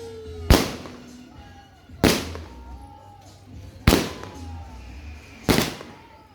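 Pegasus 'Rich Boss' 120-shot fireworks cake firing: four loud bangs about a second and a half apart, each dying away briefly after it.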